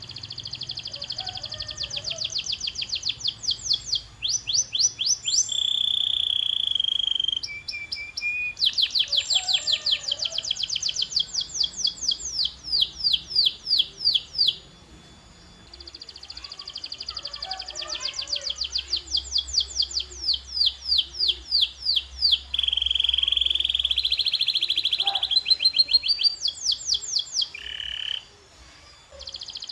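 Domestic canary singing: long rolling trills of rapidly repeated high notes, some speeding up and others slowing down, broken by two held whistled notes and a few short pauses.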